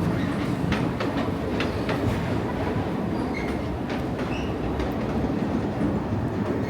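Busy city street noise: a steady low rumble of heavy traffic or rail with scattered short clicks and knocks.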